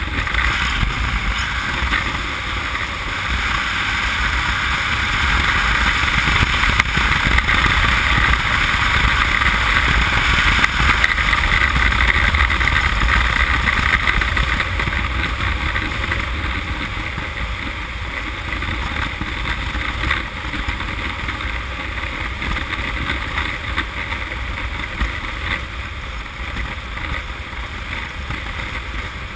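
Motorcycle riding noise: wind rushing over the helmet-cam microphone, with the Honda CM200T's small parallel-twin engine running underneath. The rush swells for about the first twelve seconds, then slowly eases.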